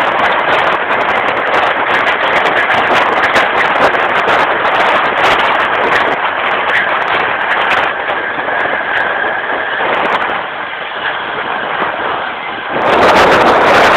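Running noise of a passenger train, heard from aboard the carriage: a steady rumble and rush with frequent sharp clicks and rattles from the wheels and carriage. Near the end the noise suddenly turns louder and brighter.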